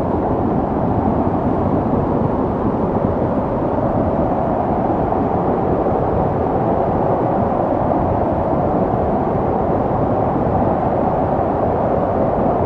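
Snowstorm wind blowing steadily: a dense, low rushing noise that holds level without gusts or breaks.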